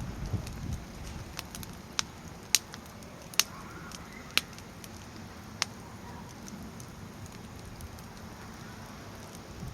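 Firewood burning in a Snow Peak fire pit, crackling, with a handful of sharp pops about 2, 2.5, 3.5, 4.5 and 5.5 seconds in over a low steady rumble.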